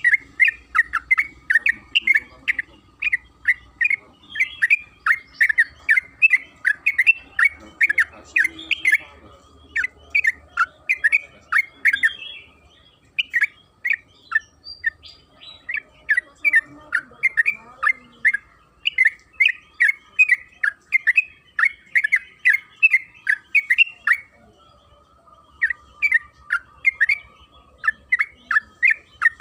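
Yellow-vented bulbul (trucukan) singing a long, rapid run of bright chirping notes, about four to five a second, broken by two brief pauses.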